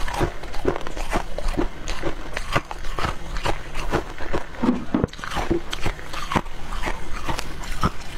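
Close-up biting and chewing of dry freezer frost chunks: a rapid, irregular run of crunches and squeaks, several a second.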